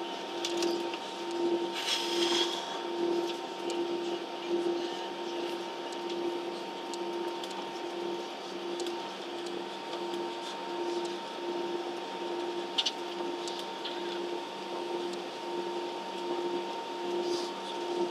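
Steady airliner cabin hum with a hiss of air and a droning tone that throbs regularly, about three beats every two seconds. There are a few brief rustles and knocks.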